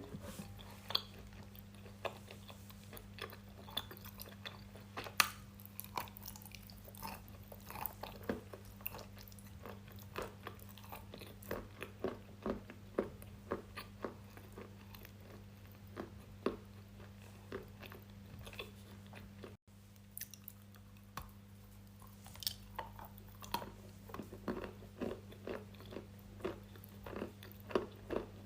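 Close-miked biting and crunching of brittle edible chalk, with irregular sharp cracks and chewing sounds, over a faint steady low hum.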